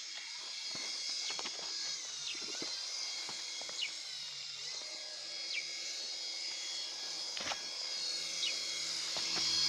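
Small toy RC helicopter's electric rotor motors whining faintly, with a thin high tone that wavers in pitch as the rotor speed changes, and a few light clicks.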